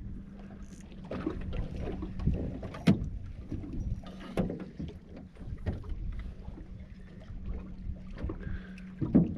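Sounds of a small fishing boat on the water: a steady low hum with scattered knocks and thumps, the sharpest about three seconds in and again near the middle, over a low rumble of wind and water.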